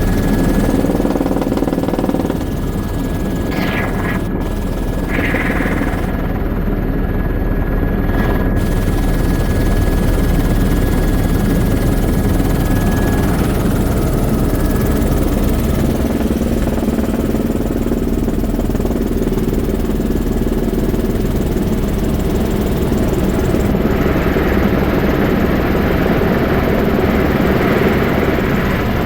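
Sightseeing helicopter's engine and rotor running steadily in flight, a loud continuous drone with a faint steady whine.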